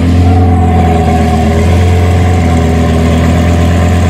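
Car engine idling steadily with a loud, even low rumble.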